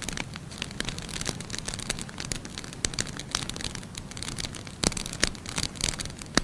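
Firewood burning in a fireplace, crackling with a dense run of small pops over a low rumble of flame. Two louder snaps come about five seconds in.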